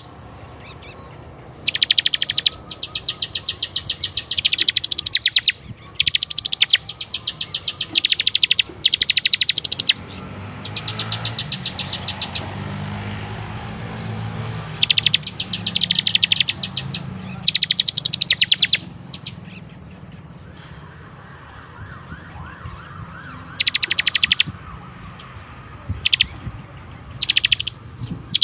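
Bar-winged prinia (ciblek) singing hard: bursts of fast, high, evenly repeated chirps, each run lasting about a second, with short pauses between them.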